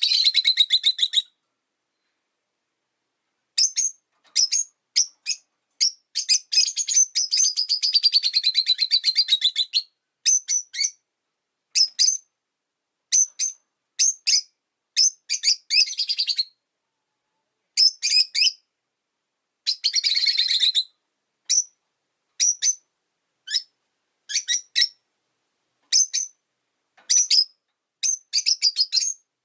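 Pet rosy-faced lovebirds chirping: sharp, high chirps repeated with short pauses between them, broken by two longer runs of rapid chattering calls.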